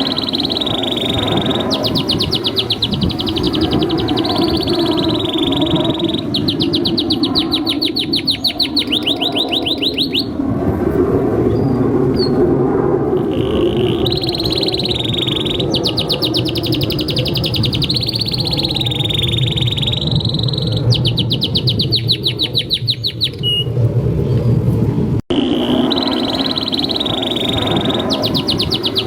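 Domestic canary singing long, fast rolling trills and chirps high in pitch, in runs of a few seconds each, over a steady low background noise.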